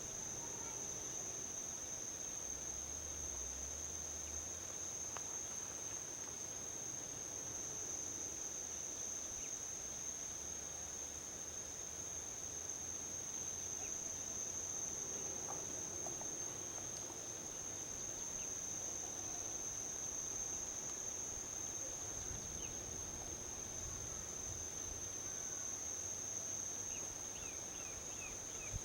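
Insects trilling steadily at one high pitch, a constant chorus without breaks, over a faint low rumble of distant highway traffic. Near the end a few short high chirps come in quick succession.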